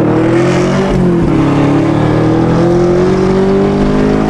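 Car engine running loud at high revs, its pitch dipping about a second in and then climbing slowly.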